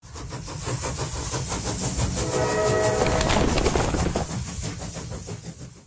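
A train rolling with a steady, rapid clickety-clack of wheels over rail joints, and a horn blast of about a second starting about two seconds in. The sound fades out near the end.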